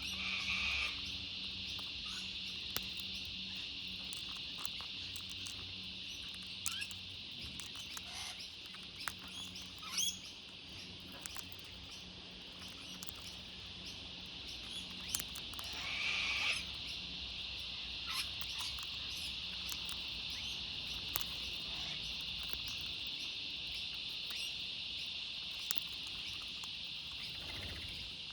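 Steady, high insect chorus droning throughout, with scattered sharp clicks and two short bird calls, one right at the start and one about halfway through.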